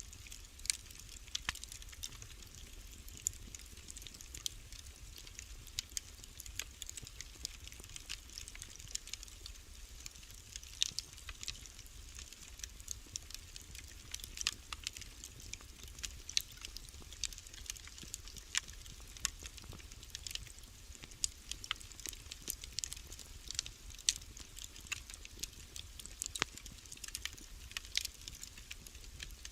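Wood fire burning in a fireplace: irregular crackles and pops, several each second, over a low steady background.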